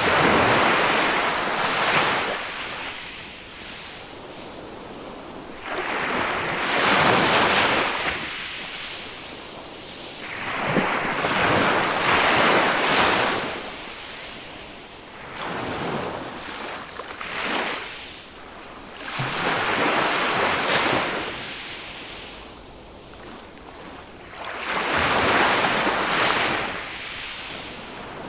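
Small waves of a calm sea breaking and washing up a sandy beach, one swell of surf every five or six seconds, with wind on the microphone.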